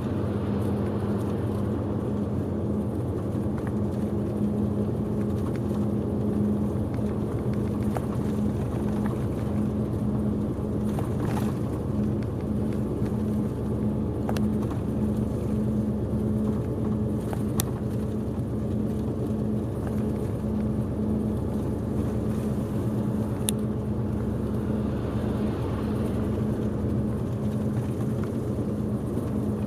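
Steady engine and road noise heard inside a moving coach, a constant low drone with an even hum, broken by a few faint clicks.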